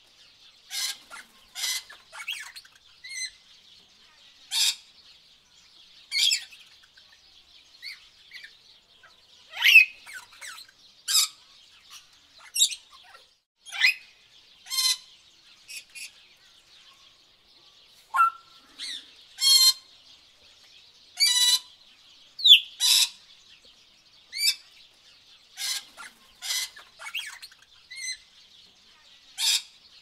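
Tropical birds calling: short, sharp chirps and quick chattering trills, one every second or two, over a faint steady high hiss.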